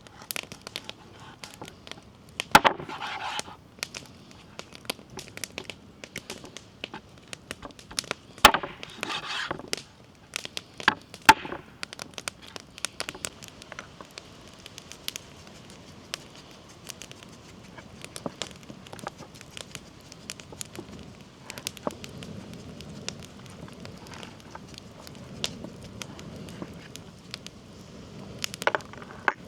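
Wood fire under a saj crackling, with scattered pops throughout and three louder knocks in the first dozen seconds.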